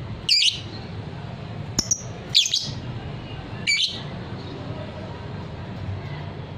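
Lovebird giving short, shrill chirping calls, four of them at irregular intervals of about a second or so, over a steady low background hum.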